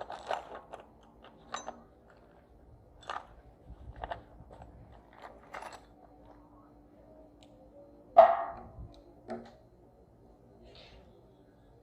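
Scattered small knocks and clicks of hard objects being handled, with one louder ringing clank about eight seconds in.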